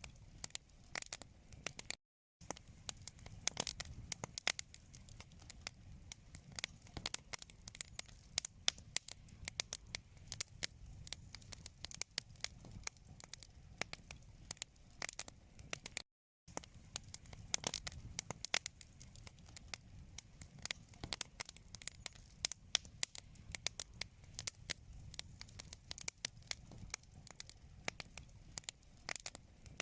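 Wood fire crackling in a fireplace: dense, irregular sharp pops and snaps over a faint low rumble. The sound drops out completely twice, briefly, about two seconds in and about halfway through.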